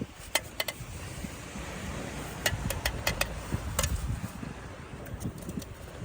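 Scattered light clicks and knocks, some in quick pairs, over a steady low rumble: handling noise from clean-up gear after a campfire.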